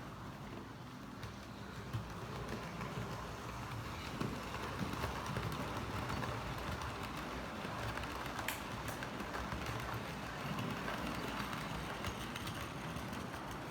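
HO-scale model train running along the layout track: a steady mechanical running noise with scattered small clicks from the wheels and rail joints.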